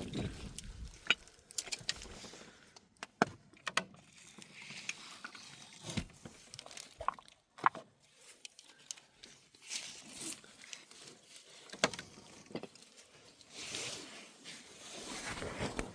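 Scattered light knocks and clicks at irregular intervals, with soft rustling in between.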